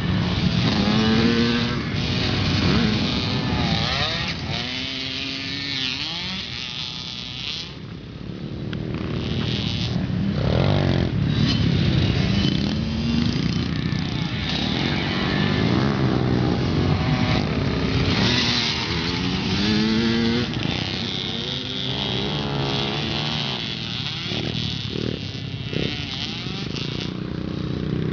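Pit bike engine revving up and down over and over as it is ridden around a motocross track. The pitch climbs in repeated sweeps and drops back between them, and it goes briefly quieter a quarter of the way through.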